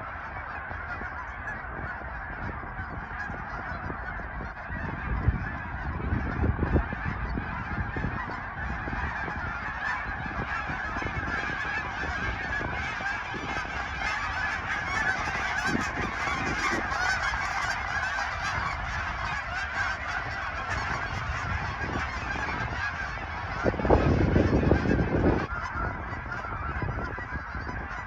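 A large flock of geese honking continuously, many calls overlapping into a steady clamour. Two louder low rumbles come through, about five seconds in and again near the end.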